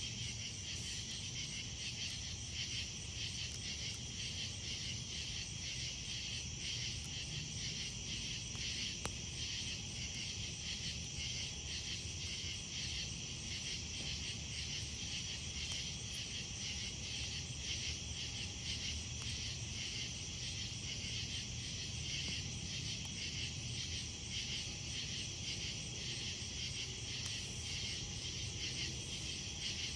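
Steady chorus of night insects, crickets chirping in fast continuous pulses, over a low campfire hum, with a single small snap about nine seconds in.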